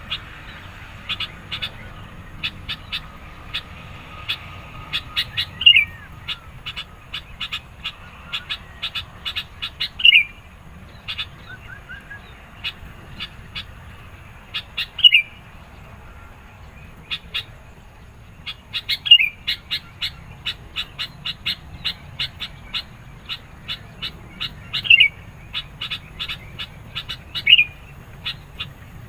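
Sooty-headed bulbul (kutilang) calling insistently: a rapid run of short, sharp chirps, broken every few seconds by a louder note that slides downward.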